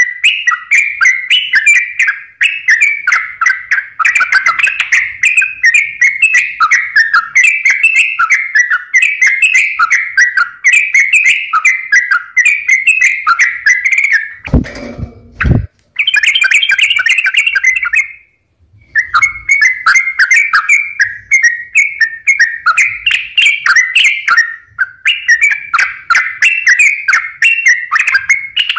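Yellow-vented bulbul (trucukan) singing a fast, continuous chattering song of rapid repeated notes. About halfway there is a short low thump, and the song breaks off briefly a few seconds later before resuming.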